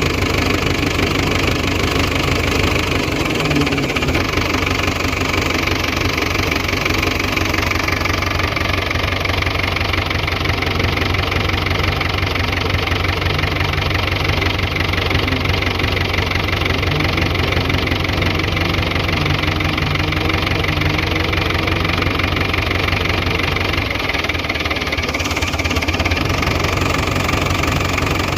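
Fordson Super Major tractor's four-cylinder diesel engine running steadily.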